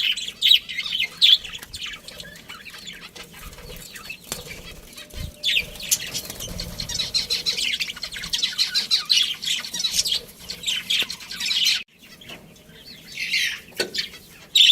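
A flock of budgerigars chirping and chattering, with many short, high calls overlapping. The chatter stops abruptly about twelve seconds in, then resumes.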